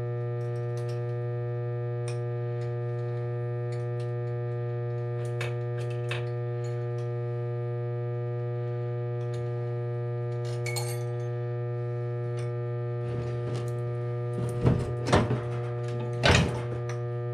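Light metal clinks and clicks of loose parts being handled over a steady electrical hum, with a few louder metallic clanks near the end.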